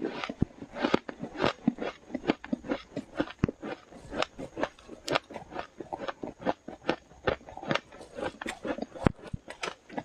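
Close-up biting and chewing of powdery freezer frost: rapid, irregular crunches several times a second.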